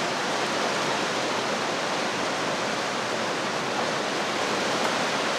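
Steady, even rushing hiss with no breaks or clicks, a constant background noise of the kind a fan or blower makes.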